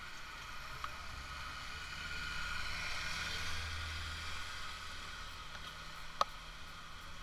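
Road traffic noise: a low hum that swells to a peak in the middle and fades again, like a vehicle going past, with one sharp click near the end.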